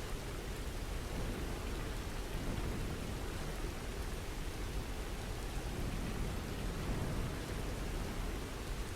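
Steady rainfall, an even wash of rain noise with a deep low rumble beneath it.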